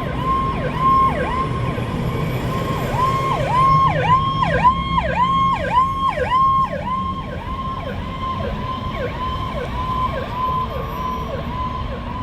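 Emergency vehicle siren in a fast yelp, the pitch dipping and sweeping back up about twice a second. It grows loudest about four to seven seconds in as the responding fire apparatus passes, over the low rumble of a heavy engine.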